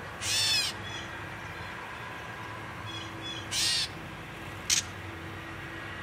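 Wild birds calling: two short, loud bursts of rapid high notes, one right at the start and one about three and a half seconds in, with a sharp click just after the second and faint chirps from other birds around them.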